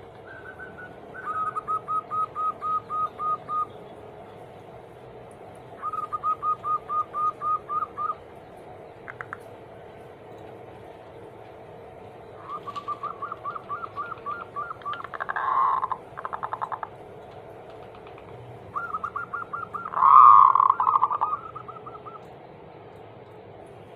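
Zebra doves (perkutut) singing in repeated trains of quick, staccato cooing notes, about four notes a second, four phrases in all. The last phrase is the loudest. This is the kind of perkutut song used to lure a silent bird into singing.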